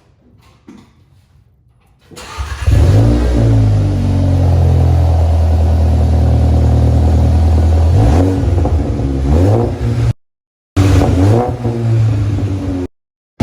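Exhaust of a 2019 VW Jetta GLI's 2.0-litre turbocharged four-cylinder through an MBRP muffler, fitted after a muffler delete, running loud with a steady low drone whose pitch shifts about eight to nine and a half seconds in. It comes in about two seconds in after a quieter stretch with a few faint knocks, and cuts out abruptly twice near the end.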